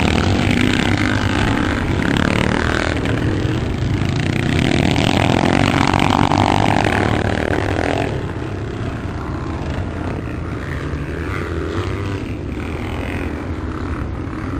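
Several motocross motorcycles racing, engines revving and changing pitch. Louder in the first half, dropping off about eight seconds in as they move away.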